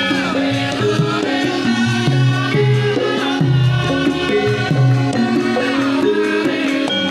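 Javanese gamelan music for a topeng mask dance: a steady stream of struck pitched notes changing every fraction of a second, over a drum pattern.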